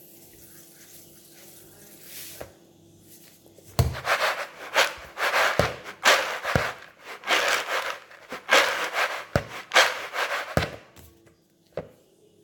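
Microwave popcorn bag being shaken in repeated bursts, the paper and popped kernels rustling and rattling inside, to mix in the salt. It starts about four seconds in and stops about a second before the end.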